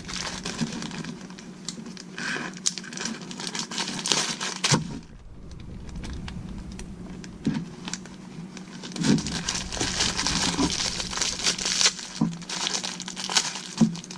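Packaging crinkling and rustling as parts are unwrapped by hand, in two spells with a quieter pause with a few soft knocks in the middle.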